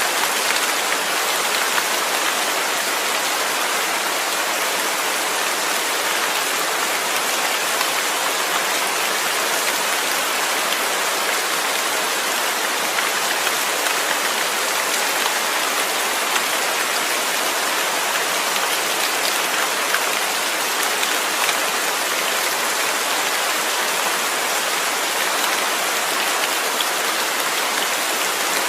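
Steady, heavy rain falling, a dense even hiss with scattered small drop ticks.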